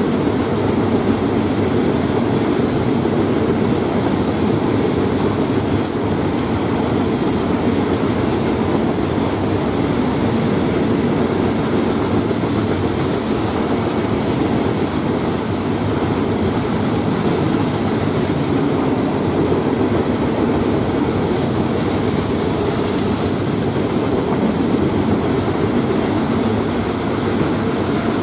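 Steel wheels of a Florida East Coast freight train's loaded rock hopper cars rolling past on the rails, a steady rumble with faint high squeals now and then; the first empty intermodal cars follow near the end.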